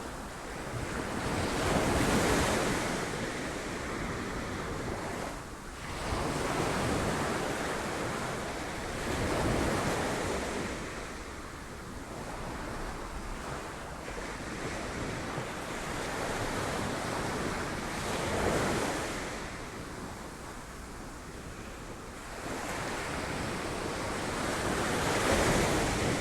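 Sea surf breaking on rocks: a continuous wash of waves that swells into louder crashes every few seconds, with wind buffeting the microphone.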